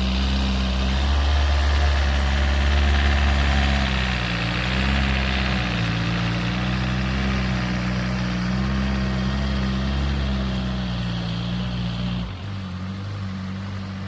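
Homemade tractor's engine running steadily, its pitch wavering slightly; about twelve seconds in the deep rumble falls away and the engine note changes.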